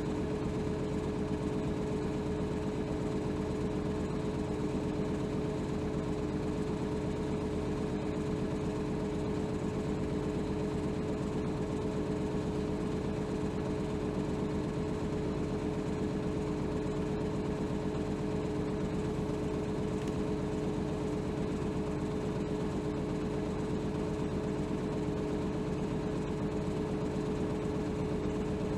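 Inside a 2007 Hino Rainbow HR city bus (BDG-HR7JPBE), its inline-six diesel engine idling with a steady, unchanging hum.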